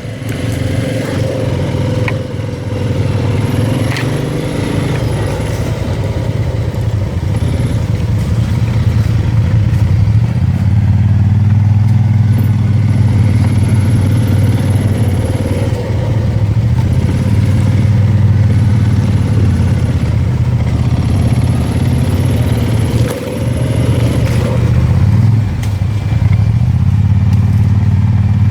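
ATV engine running under steady throttle while riding a rough trail. The engine note gets louder about ten seconds in and dips briefly near the end.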